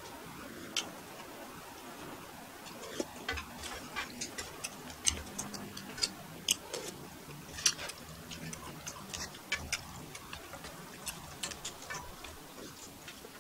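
Close-up eating sounds of a man chewing ramen noodles: irregular wet mouth clicks and smacks, a few to several a second, with the odd light tap of chopsticks or spoon.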